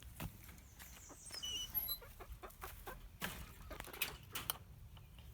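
Young backyard chickens clucking softly, with a few brief high peeps about one and a half to two seconds in, among scattered light clicks and taps.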